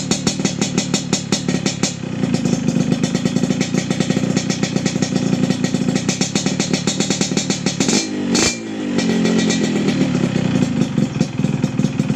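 Yamaha RX-King's single-cylinder two-stroke engine idling through an aftermarket PDK Cobra chrome exhaust, a rapid pulsing putter, with a short throttle blip about eight seconds in.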